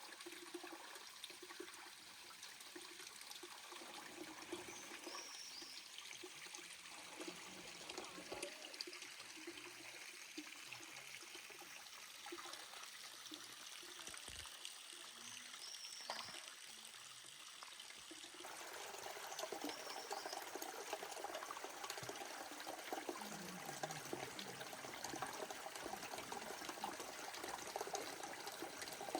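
Faint trickling water from a small stream or runoff, steady, getting somewhat louder about two thirds of the way through.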